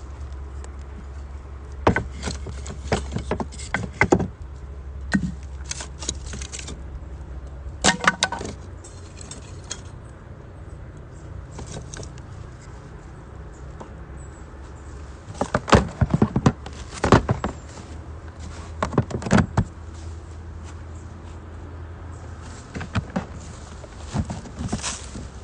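Scattered clusters of light metallic clinks and knocks, camp cookware and utensils being handled, over a steady low rumble.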